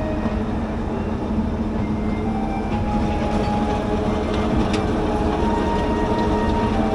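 Small forest-railway train pulled by a 5-ton Hokuriku Juki diesel locomotive running along the track: a steady low drone of engine and wheels, with a few faint clicks.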